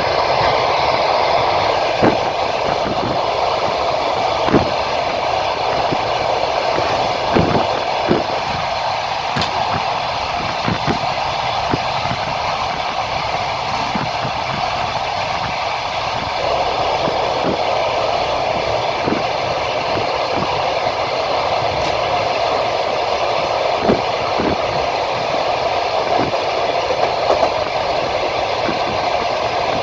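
Passenger train carriage rolling along the track, heard from inside: a steady rumble of the wheels on the rails, with short, irregularly spaced knocks as the wheels cross rail joints.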